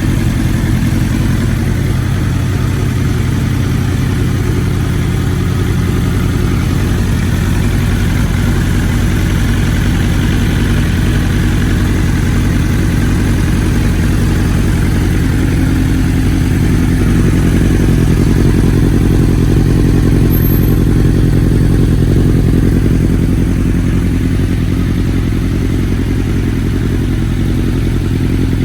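2020 BMW S1000RR M's inline-four engine running at a steady idle, getting slightly louder for a few seconds past the middle.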